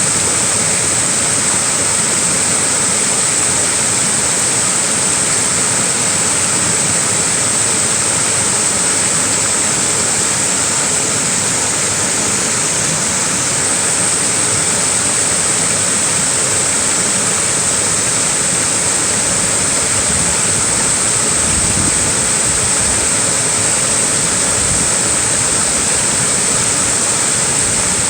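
Small waterfall running steadily, a continuous even rush of falling water, with some deeper rumbling about two-thirds of the way through.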